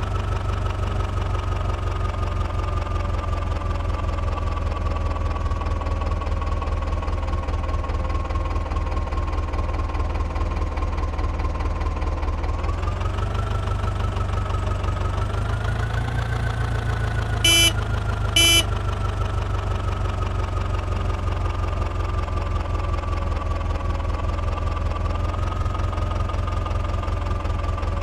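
John Deere diesel tractor engine running steadily, with a whine that slowly falls in pitch and rises again twice around the middle. Two short horn beeps about a second apart come around two-thirds through.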